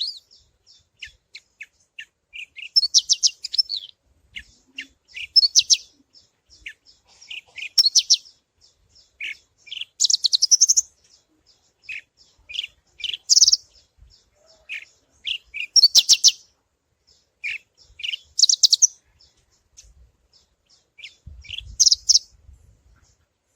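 Australasian bushlark (Mirafra javanica parva) singing: short high chirps building into a fast, buzzy trill, the phrase repeated about every two to three seconds.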